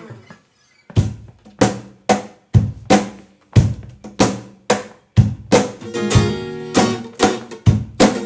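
Instrumental passage of a live band: after a brief pause, drum hits about twice a second with acoustic guitar, the guitar strumming fuller from about halfway through.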